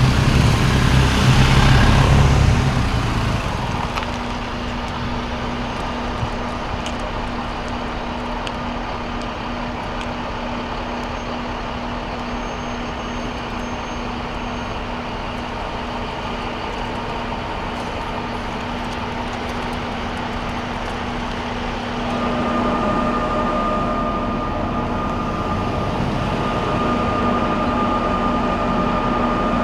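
Heavy vehicles passing slowly in a procession. A loud low engine pass comes in the first few seconds, then a steady engine drone with a constant hum, joined about 22 seconds in by a few higher steady tones.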